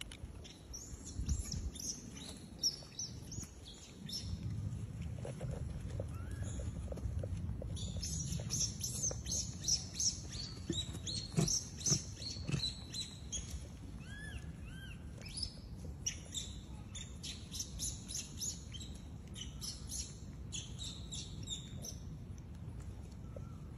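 Small birds chirping in quick runs of short high notes over a low, steady rumble.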